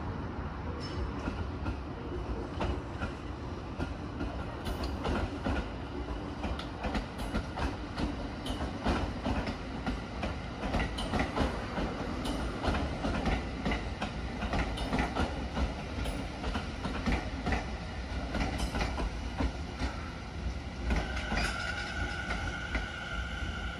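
209-2100 series electric commuter train running past on the tracks, with a steady rumble and a run of uneven wheel clacks over the rail joints. A high steady whine comes in near the end.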